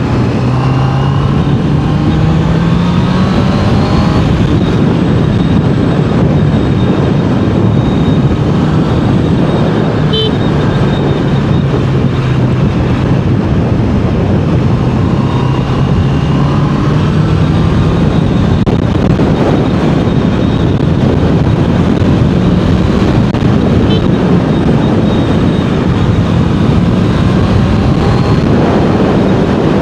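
Honda CBR650R's inline-four engine and exhaust under way, the pitch rising and falling several times with throttle and gear changes, over steady wind and road noise.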